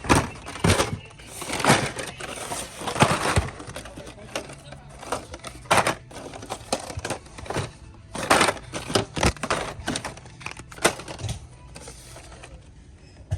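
Irregular clicks and clatters of hard plastic blister-packed toy cars being handled and shuffled on a store rack, thinning out near the end.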